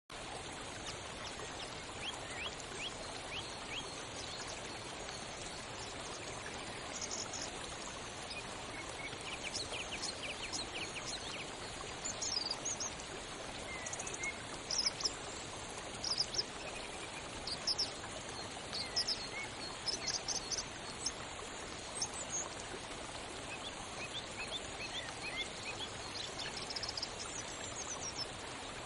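Steady rush of falling water from a waterfall, with small birds chirping and trilling over it throughout, the calls busiest and loudest in the middle.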